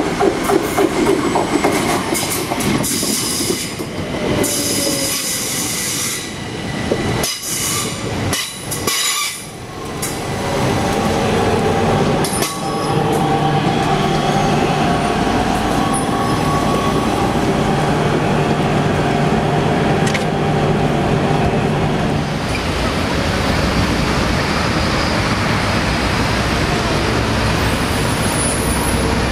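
Train running on rails, with wheel squeal and short clanks through the first ten seconds or so, then a steady rolling noise with a low hum.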